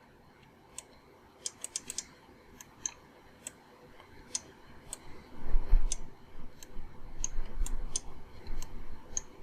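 Irregular clicks of a computer mouse and keyboard, several in quick succession about a second and a half in, then scattered, with a low rumble joining in from about halfway.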